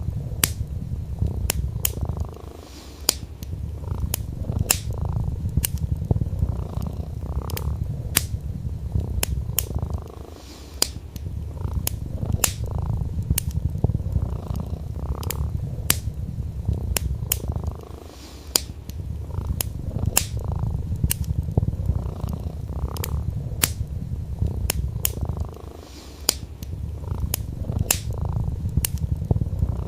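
Domestic cat purring, a low steady rumble that fades briefly about every seven or eight seconds. Burning wood crackles with sharp pops throughout.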